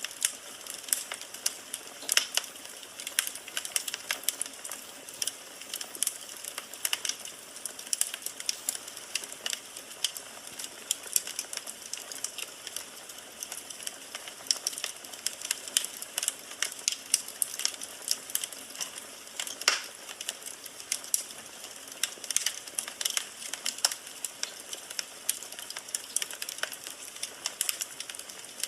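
Firewood burning in a fireplace, crackling and popping in quick irregular snaps over a steady hiss.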